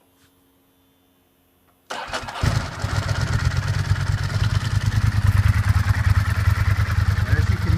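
2002 Ducati ST4S's 996 cc L-twin engine cold-starting after a month unused: a faint steady hum for about two seconds, a brief crank, then the engine catches at once and settles into a steady, evenly pulsing idle.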